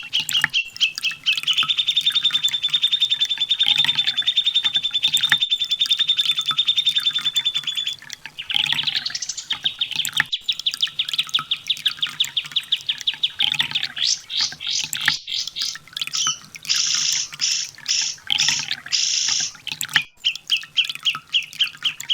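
Kolibri ninja sunbird (konin) song: long, very rapid trills of high, even notes held for several seconds, a second trill starting about 9 s in, then a string of loud separate buzzy notes near the end.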